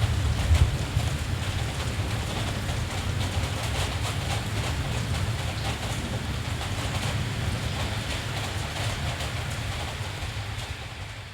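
Steady rain falling, with a constant low rumble underneath, slightly louder in the first second; the sound begins to fade down near the end.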